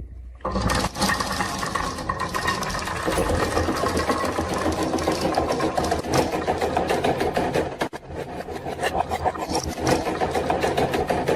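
Many marbles clattering down a wooden marble run in a dense stream of rapid clicks, over a steady mechanical whir. It starts suddenly about half a second in, and drops out briefly near 8 seconds.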